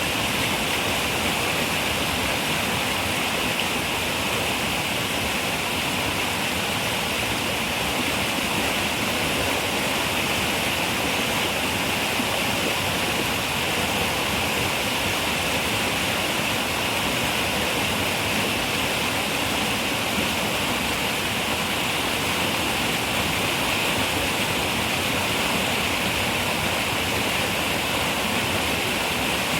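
River water running steadily over rocks, an even rushing sound with a bright hiss and no breaks or separate splashes.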